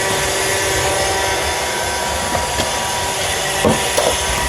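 Roomba robot vacuum running, a steady whirring hum from its motors, with a couple of brief knocks near the end.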